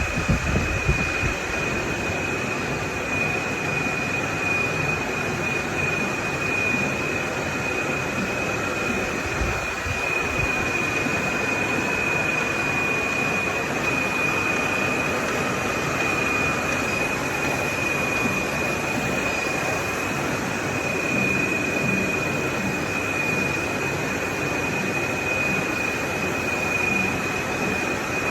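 Sticker and label cutting machine running steadily: a continuous mechanical noise with a constant high-pitched whine.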